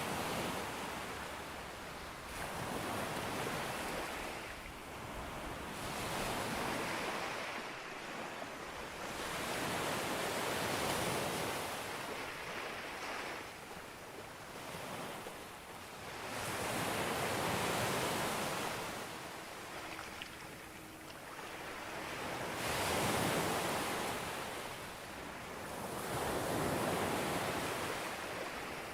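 Ocean waves breaking on a beach, the surf swelling and falling back in about six slow surges.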